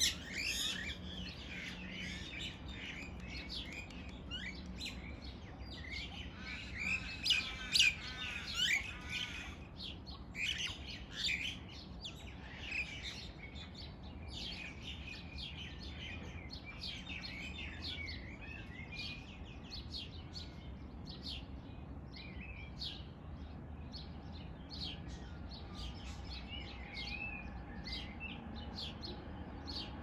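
Several small birds chirping and calling, with many short calls overlapping throughout. The calls are loudest and busiest around seven to nine seconds in.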